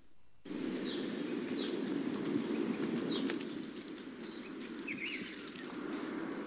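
Birds chirping outdoors: short high calls scattered through, one a quick up-and-down warble about five seconds in, over a steady low background rumble.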